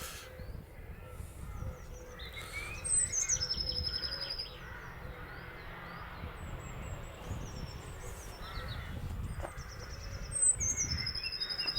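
Small songbirds singing: a bright, high trilled phrase about three seconds in and another near the end, with quieter chirps between, over a low background rumble.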